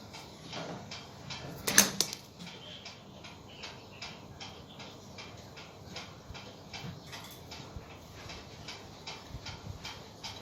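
Rapid, regular short ticks, about three a second, with one loud sharp knock about two seconds in.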